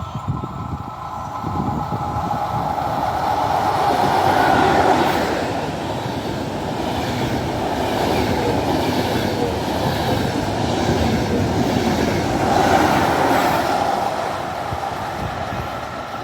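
A train running through the station on the rails, with a steady whine over the rolling noise. It grows louder twice: about a third of the way in and again about three quarters through.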